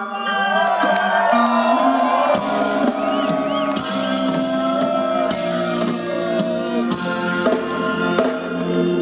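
Live roots reggae band playing an instrumental passage: drum kit and bass under a lead melody that slides and bends in pitch.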